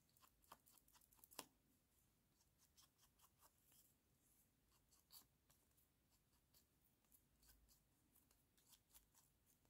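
Near silence, with faint scattered scratches and light taps of paper being worked at a craft table, a couple of them a little sharper about a second and five seconds in.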